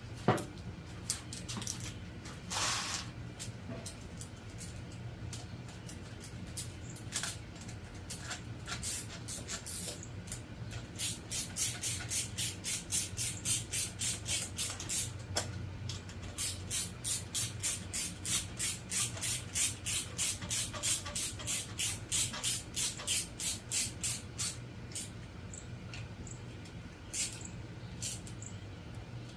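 Hand ratchet wrench rasping in quick, even strokes, about three a second in two long runs, driving the cam chain tensioner bolt into a Honda CB750 engine.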